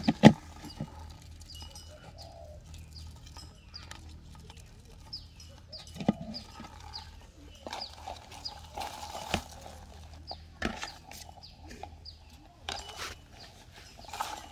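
Birds calling outdoors: short high chirps repeating over and over, with a lower cooing call. A few sharp clicks and knocks cut in, the loudest one at the very start.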